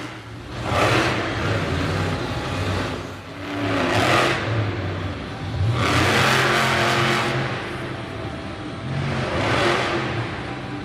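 Monster truck engine revving hard in repeated surges, about four big bursts of throttle, over a continuous low engine drone.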